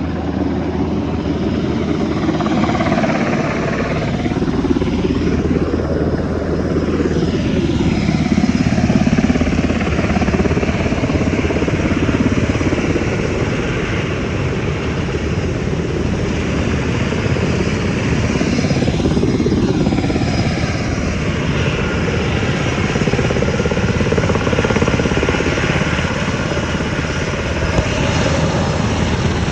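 Firefighting helicopter running loud and close, a steady rotor and engine din whose tone sweeps up and down twice, about five seconds in and again around twenty seconds, as it passes.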